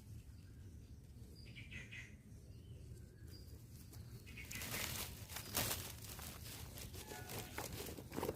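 A few faint bird chirps over a low rumble, then, from about halfway in, rustling and crunching in vegetation, as of footsteps and plants being brushed aside.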